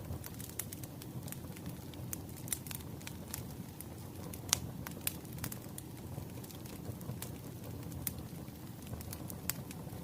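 Firewood burning with irregular sharp crackles and pops over a low steady rumble, the loudest pop about four and a half seconds in.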